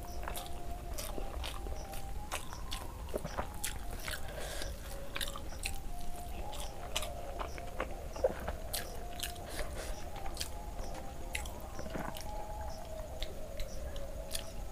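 Close-miked chewing of a mouthful of rice eaten by hand, with frequent small wet clicks and smacks of the mouth.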